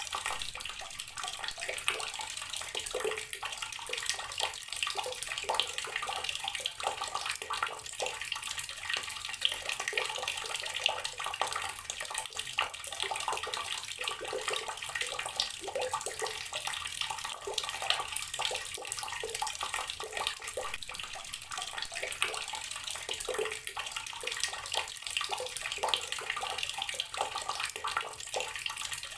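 Water tap running steadily, the stream splashing continuously into the water below.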